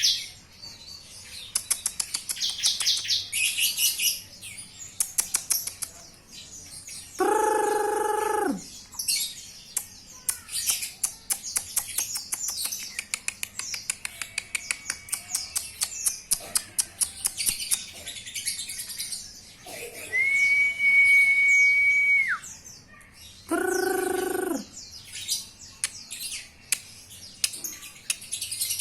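Lovebird singing in long runs of rapid, high chirps and trills. Twice a lower held sound of about a second breaks in, dropping in pitch at its end, and near the end a steady high whistle-like tone holds for about two seconds.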